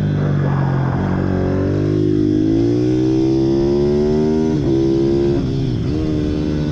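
Pit bike engines running at racing revs, one climbing steadily in pitch and then dropping briefly twice near the middle before picking up again, over a steadier engine tone underneath.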